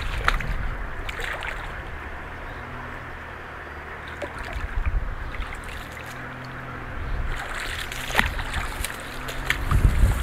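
Off-road vehicle's engine running steadily at a distance as it drives through flooded marsh, with wind buffeting the microphone near the start and end.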